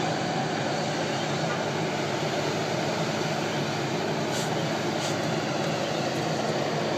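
Steady vehicle rumble and road noise, even throughout with no distinct events.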